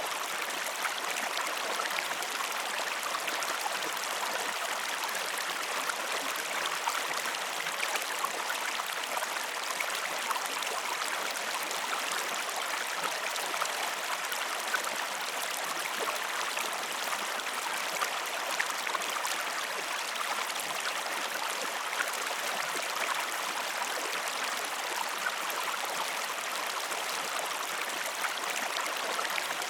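Steady running water with fine trickling and small drips scattered through it.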